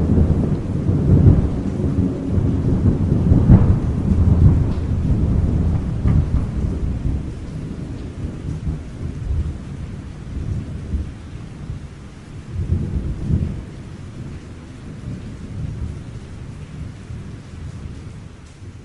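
Thunder rolling over steady rain. It is loud and crackling at first, then fades away slowly, with one more low swell of rumbling about two-thirds of the way through.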